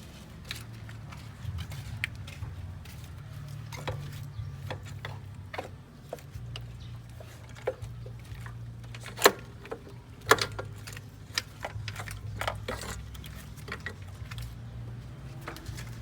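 Scattered metallic clicks and clinks of tools and car parts being handled, with two sharper knocks about nine and ten seconds in, over a steady low hum.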